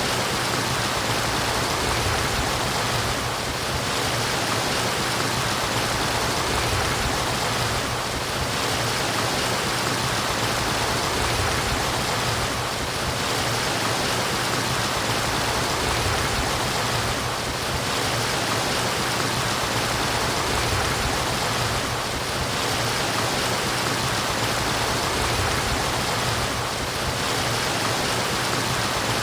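Murmuring flowing water, a steady even rush with a slight dip in level about every four to five seconds.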